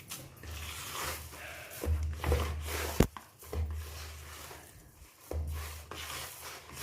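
Hands mixing and squishing a soft corn-flour dough in a bowl, with irregular rubbing and squelching, and a sharp knock about three seconds in.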